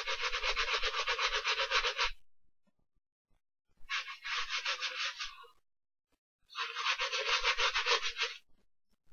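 Brush scrubbing a sneaker in three bursts of fast back-and-forth strokes, with short pauses between them.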